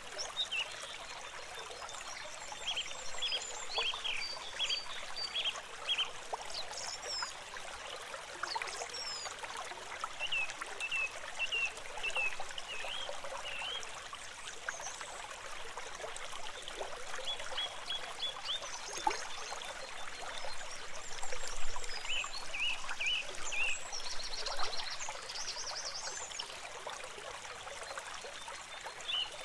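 A stream of water trickling and splashing steadily, with series of short high chirping calls over it every few seconds.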